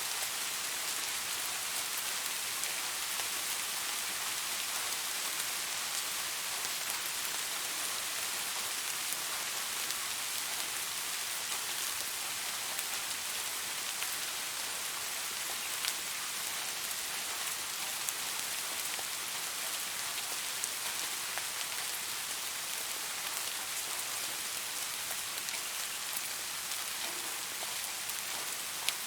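Steady light-to-moderate rain with a dense patter of individual raindrops landing on surfaces, a few louder drips standing out now and then.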